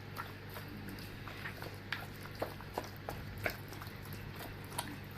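Raw chicken pieces being mixed in a wet soy sauce and cornstarch marinade: soft, irregular squishes and clicks over a steady low hum.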